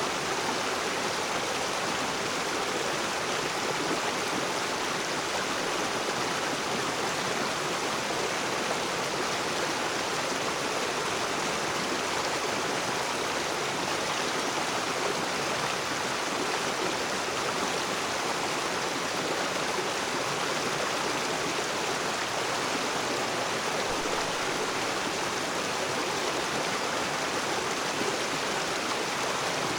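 Rocky river rushing and splashing over stones, a steady, even water noise.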